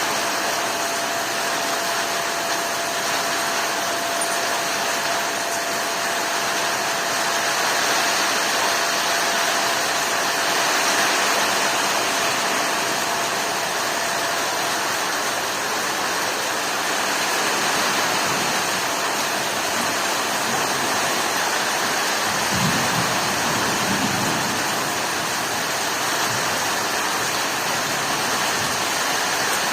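Heavy rain falling steadily in a rainstorm, an even unbroken hiss, with a few faint low rumbles about three-quarters of the way through.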